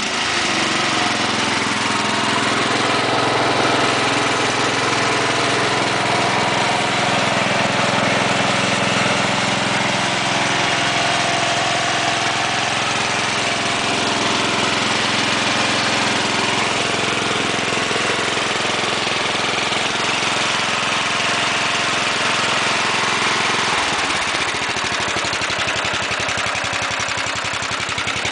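Murray 17 HP riding lawn tractor's engine running steadily; its note changes about 24 seconds in.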